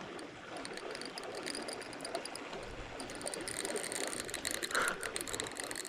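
Fishing reel clicking in rapid fine ticks, denser from about three seconds in, as a hooked striped bass pulls line off the reel. Steady rush of river water underneath.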